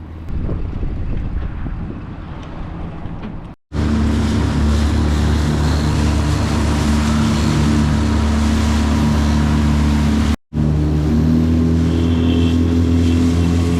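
Boat motor running steadily while the boat is under way, with wind and water noise. It comes in three cut-together stretches: a noisier opening without a clear engine note, then after a brief dropout a steady engine note, and after a second dropout about ten seconds in, the engine continuing at a slightly different pitch.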